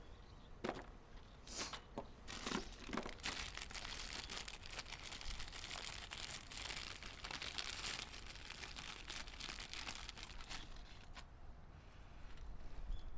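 Crinkly material being handled and crumpled by hand: a few sharp clicks at first, then several seconds of dense crackling rustle that dies away near the end.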